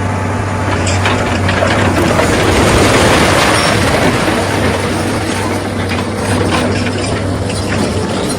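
Excavator's diesel engine running steadily under a dense, irregular scraping and clattering of rock being worked, loudest about three seconds in.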